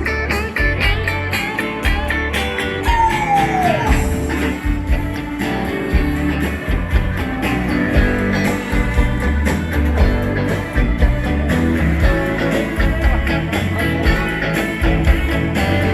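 Dance band playing an instrumental passage: guitar lead over bass and drums with a steady beat, with a falling bent note about three seconds in.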